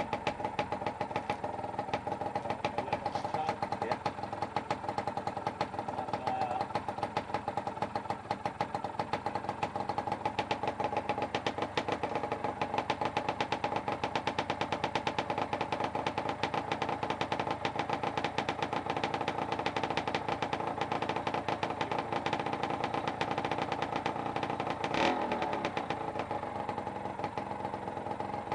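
Freshly rebuilt two-stroke engine running steadily at idle with a rapid, even beat. A single sharp knock sounds near the end.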